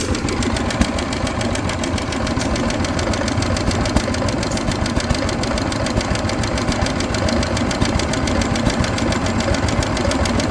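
Antique stationary gas engine, a throttle-governed Novo, running with a steady, rapid, even exhaust beat.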